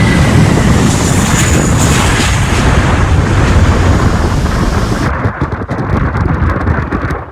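Airliner passing close and loud, its engine noise a dense rushing hiss with wind buffeting the microphone; the high part of the sound drops away sharply about five seconds in.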